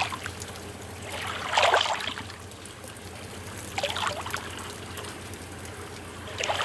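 Tortillas cooking in a pan on a small burner, sizzling and crackling in swells, about three times, over a steady low hum.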